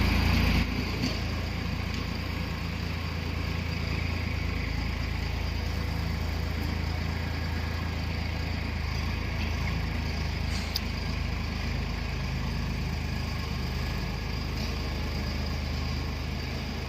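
Tractor's diesel engine running steadily at an even low pitch while pulling a land leveler, a little louder for the first half second.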